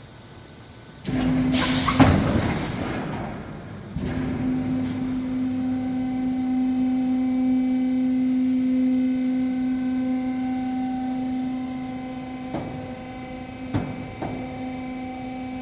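A small electric motor starts with a loud rushing hiss for about two seconds, then runs with a steady hum for about twelve seconds. A few sharp clicks come near the end.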